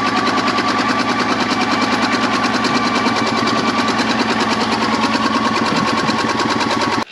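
Old EZ-GO golf cart's small gas engine cranking and firing rapidly on a shot of ether, then cutting off suddenly just before the end. It runs only on starting fluid because it is not getting gas, which the owner puts down to a carburetor problem.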